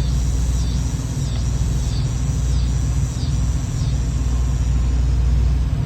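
A bird's repeated high, falling whistles, about one every half second or so, sounding like an air raid siren and dying away about four seconds in. A steady low rumble runs underneath.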